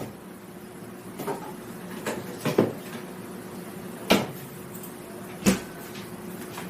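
Handling noise: five or six separate sharp knocks and clacks, the loudest two near the middle and late on, over a steady low hum.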